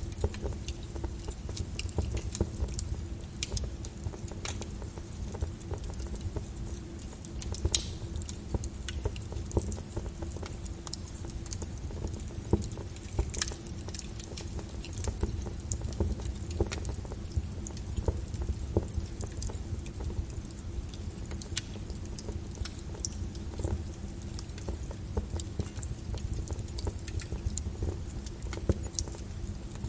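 Wood fire in a fireplace crackling, with irregular sharp pops and snaps over a low steady rumble and a faint hum.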